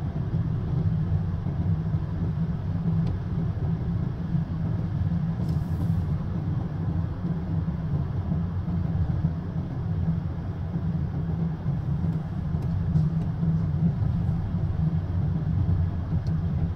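Steady low rumble of a moving road vehicle heard from inside its cabin, engine and tyre noise running evenly without change.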